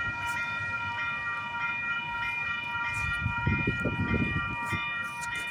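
Level crossing warning bell ringing in a steady, repeating pattern of high electronic tones. A low rumble swells and fades about halfway through.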